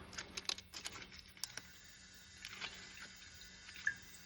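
Quick, irregular light clicks and taps, thickest in the first second and a half and sparse after that, over a faint steady low hum.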